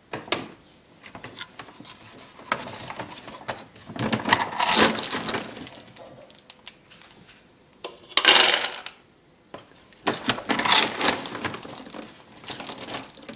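Dry dog food rattling into metal bowls, with the bowls clinking and clattering in short spells.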